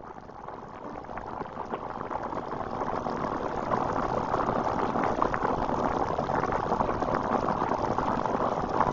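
Food sizzling on a hot tabletop grill: a steady crackling sizzle that builds over the first few seconds, then holds.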